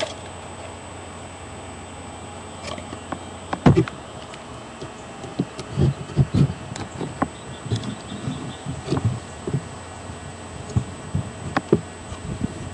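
Irregular soft knocks and bumps from a wooden birdhouse being handled, over a steady low hum from a webcam microphone.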